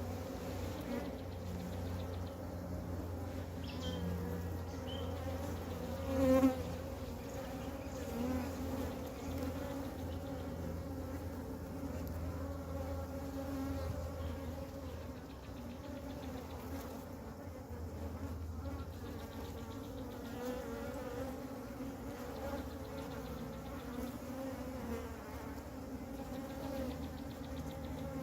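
A honey bee swarm buzzing, a steady many-bee hum that swells briefly louder about six seconds in.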